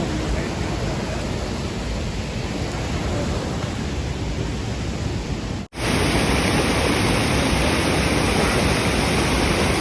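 Steady roar of a large waterfall, a dense rushing noise; about two-thirds of the way through it cuts and comes back louder and hissier.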